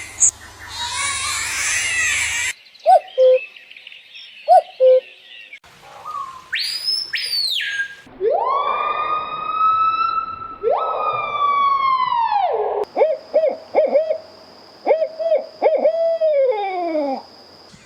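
A string of different animal and bird calls, one after another: short low hoots, a high whistle that rises and falls, two long loud calls that slide down in pitch, then quick repeated notes over a steady high tone.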